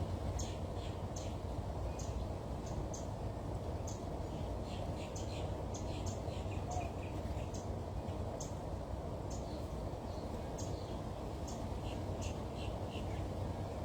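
Small birds chirping: many short, high chirps come irregularly, over a steady low background noise.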